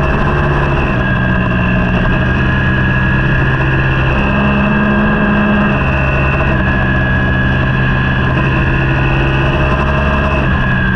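Racing superbike engine running, heard on board, its pitch stepping up and down a few times.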